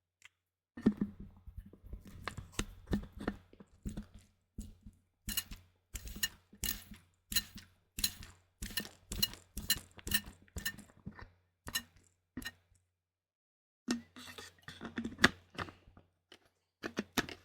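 A trigger spray bottle pumped over and over, each squeeze giving a short, sharp spray. Over the middle of the stretch the sprays come at about two a second, stop briefly near the end, then start again.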